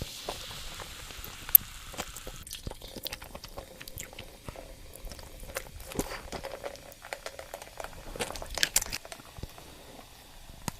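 Close-up chewing and biting of crunchy food: a run of crisp crunches and clicks, with one sharp crack about a second and a half in and a quick flurry of crunches near the end.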